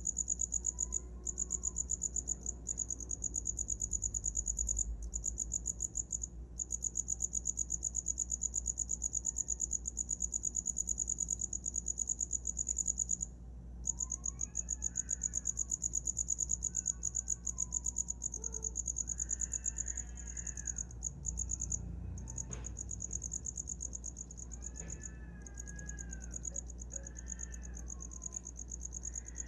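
Cricket singing a continuous, fast, high-pitched trill that breaks off briefly a few times. From about halfway on, fainter sweeping chirps, lower in pitch, come in now and then beneath it.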